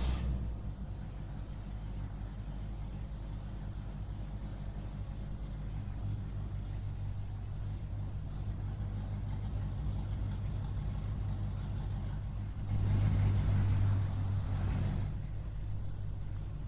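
Small motor running steadily with a low hum, swelling louder for about two seconds near the end.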